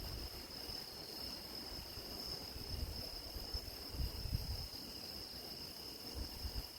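Grass crickets trilling in one continuous high, steady chorus, with uneven low rumbles underneath that are strongest about four seconds in.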